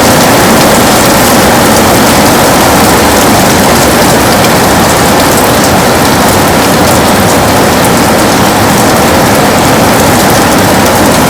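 Heavy rain beating on a window, a dense, steady hiss with fine drop ticks that does not let up.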